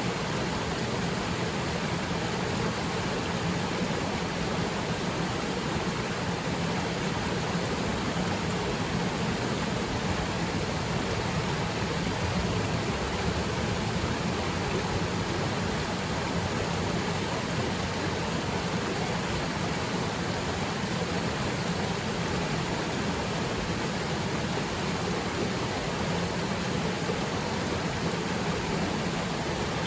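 Waterfall pouring into its pool as a steady, even rush of water, with rain falling on the water's surface.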